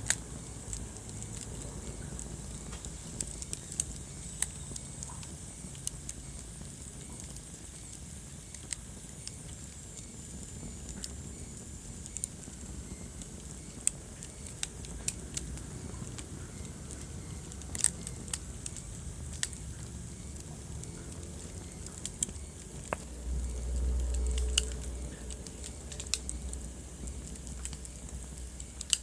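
Wood fire burning in a fireplace, crackling with scattered sharp pops over a steady low rumble of flame. About three-quarters of the way through, the low rumble swells louder for a couple of seconds.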